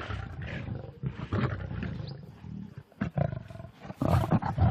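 Several lions snarling and growling over a fresh kill, in repeated irregular outbursts as they fight for shares of the carcass, loudest near the end.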